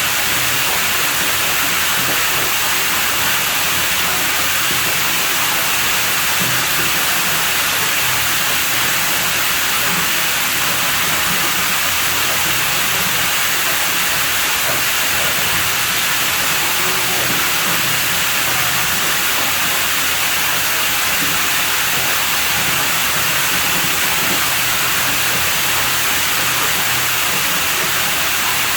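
Steady hissing rush of running water at a private pool, unchanging throughout.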